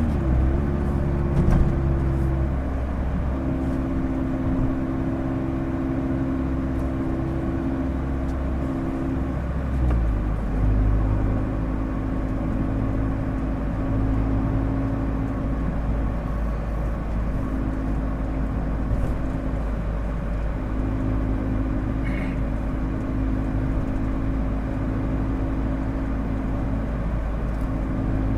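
Mazda MX-5 Miata four-cylinder engine through a Goodwin Racing RoadsterSport race exhaust. Its pitch drops right at the start, then it holds a steady, even cruise with road and wind noise.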